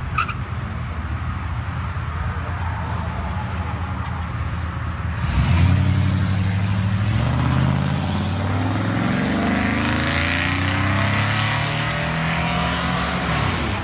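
Car engine running low and steady, then revved hard about five seconds in, its pitch climbing and falling several times.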